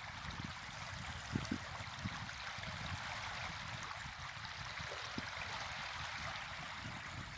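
Steady rush of running water, with a few soft low knocks.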